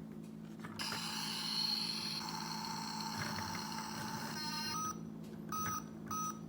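Electronic sound effects from a Toy State Caterpillar steamroller toy's small speaker. A hissy, buzzing sound starts about a second in and lasts about three and a half seconds, followed by a short tone and then two short beeps near the end.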